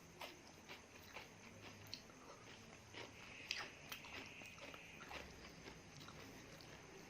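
Close-miked chewing of food: faint, irregular wet mouth clicks and smacks, a few sharper ones around the middle.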